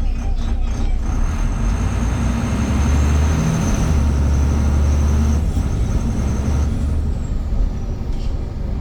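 VDL Pulsar single-deck bus under way: the engine drone builds from about two seconds in and eases a little after five seconds, with a thin, steady high-pitched whine over it that fades out near the end.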